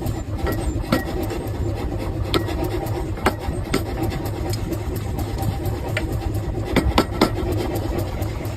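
Workshop machine drone running steadily, with about ten scattered sharp knocks of metal on metal from forging work on the axe blank.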